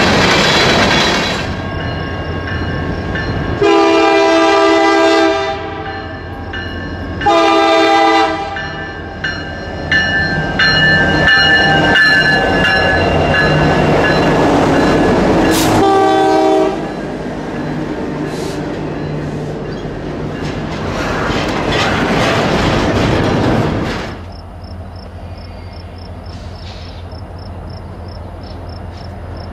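Freight cars rolling past over rail joints, then a diesel freight locomotive's air horn sounding three chord blasts, the first the longest, as the locomotive comes up to a grade crossing and rolls past close by. Near the end the sound drops to a quieter, distant train rumble.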